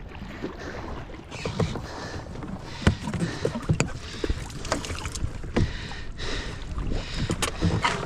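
Kayak paddle strokes dipping and splashing in calm lake water, about one stroke a second, with a few sharp knocks in between.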